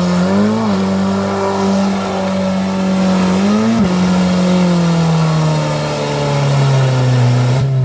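Suzuki Escudo engine revving hard and held at high revs, with two quick rises and falls in pitch, one about half a second in and one near four seconds. Over the last few seconds the revs slowly drop.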